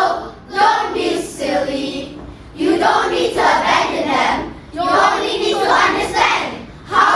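A chorus of children's voices in unison, in phrases of about two seconds with short pauses between.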